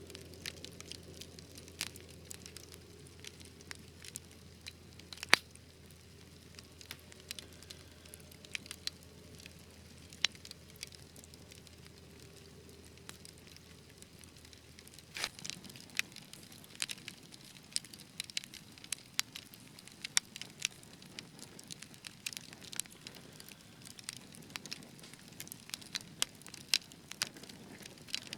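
Wood fire crackling and popping: scattered sharp snaps, sparse at first with one loud pop about five seconds in, then more frequent from about halfway through.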